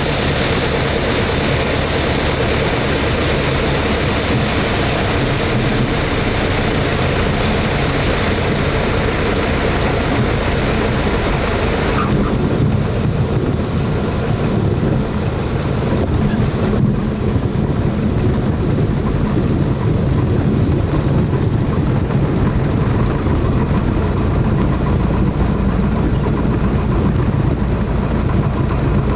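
Small propeller airplane's engine and propeller running with a steady, loud drone; about twelve seconds in, the higher hiss drops away and the lower drone continues.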